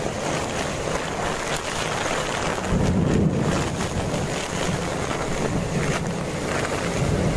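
Steady wind noise buffeting the microphone, with a low rumble coming in about three seconds in.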